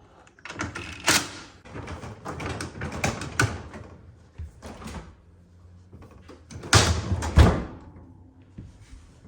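Refrigerator door being handled during a hinge adjustment: scattered knocks and rattles, then two loud thumps close together about seven seconds in.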